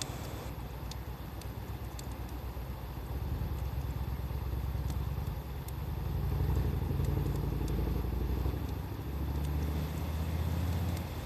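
A motor vehicle's engine runs as a low hum that grows louder and shifts in pitch about halfway through and again near the end. Over it, the wood fire gives scattered small sharp crackles and pops.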